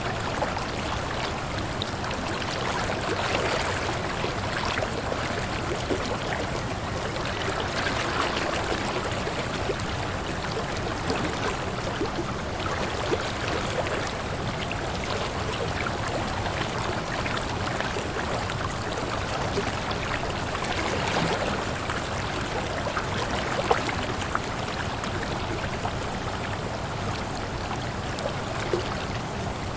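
Waterfall: water falling and splashing in a steady, unbroken rush, with small splashy flickers through it.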